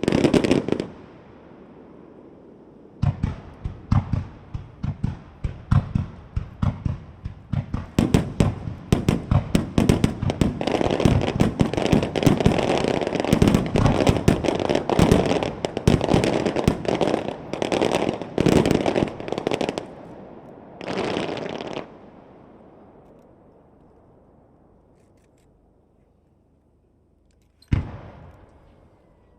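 Aerial firework shells bursting in a starmine volley: one loud bang at the start, then rapid bangs several a second from about three seconds in, thickening through the middle and stopping about twenty seconds in. A brief hissing burst follows, then the sound fades, with one last bang near the end.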